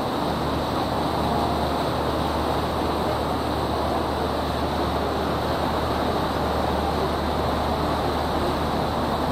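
River tour boat's engine giving a steady low hum under a constant rushing noise, heard from aboard.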